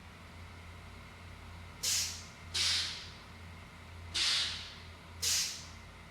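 Four short hisses of compressed air being let out of a truck's air system, over the low steady hum of an idling engine.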